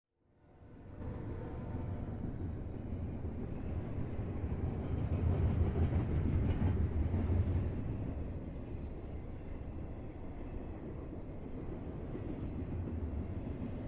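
A train rumbling along the tracks. It fades in at the start, is loudest about halfway through, then settles to a steady rumble.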